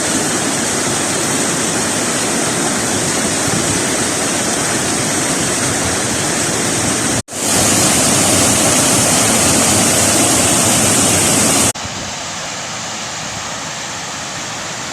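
Rushing mountain water: a steady, loud roar of fast-flowing water. It breaks off abruptly about seven seconds in and comes back louder and hissier, then drops suddenly to a quieter rush near the end, as if cut between three shots.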